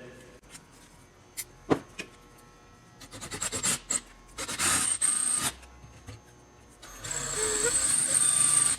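Electric drill boring out a stainless steel rivet, a couple of clicks first, then short bursts of drilling and a longer steady run of about three seconds near the end.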